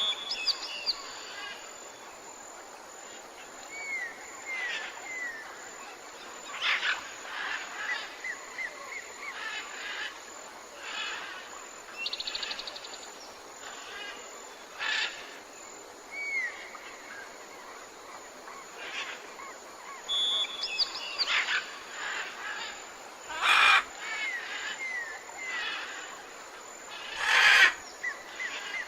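Tropical forest ambience of many birds calling: short chirps, downward-gliding whistles and trills come one after another over a steady background hiss. Two louder calls stand out near the end.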